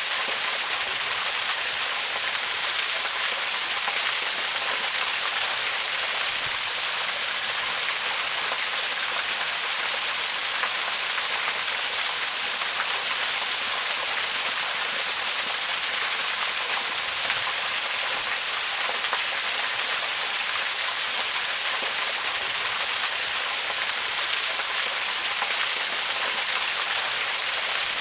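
Waterfall: water falling and splashing in a steady, even hiss, strongest in the high frequencies, without a break.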